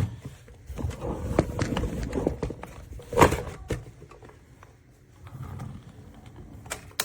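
A run of clattering knocks over a low rumble, with one loud sharp knock a little after three seconds in.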